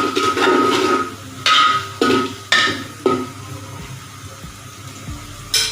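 Onions and whole garam masala spices frying in oil in a cooking pot, sizzling as they are stirred with a metal spoon. About a second and a half in come four metal clanks about half a second apart, with one more near the end.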